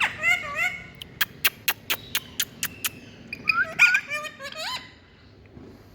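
Indian ringneck parrot calling: quick high chirps and whistled squeaks that bend up and down in pitch. A run of about eight sharp clicks, a few per second, comes between them, and more bending whistles follow before the calls stop.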